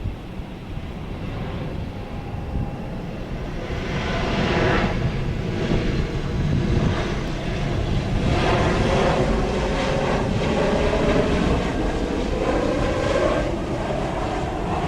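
Jet airliner engines passing close by: a rumble with a shifting whine that grows loud about four seconds in and holds.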